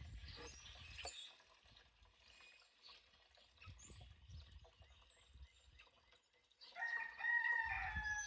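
A single long, drawn-out animal call about two seconds long near the end, holding its pitch and dipping slightly as it ends. It is preceded by a low rumble that fades out about a second in, and by faint knocks.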